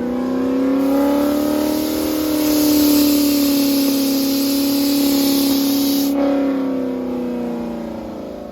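A car engine running at steady high revs, its pitch climbing a little over the first couple of seconds, holding, then easing down near the end. A hiss runs over the middle and cuts off suddenly.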